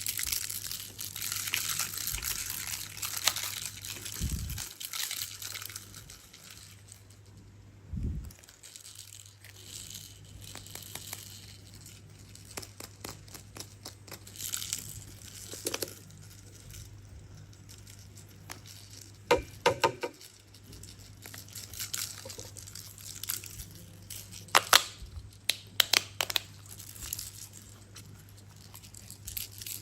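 Plastic crinkling and tearing, with scattered clicks and taps of small plastic parts being handled. The crinkling is longest over the first few seconds.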